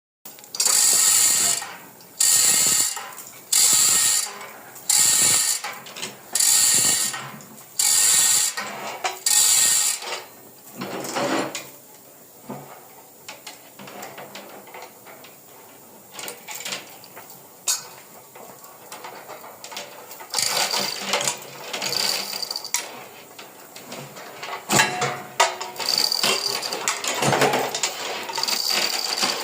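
Mechanical ratcheting and clicking, in sharp bursts about once a second for the first ten seconds, then irregular clicks and rattles.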